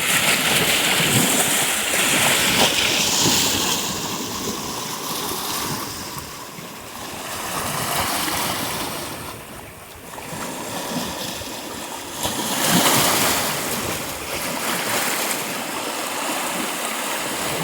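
Sea surf breaking and washing on the shore, a rushing noise that swells and falls back every few seconds, loudest about thirteen seconds in.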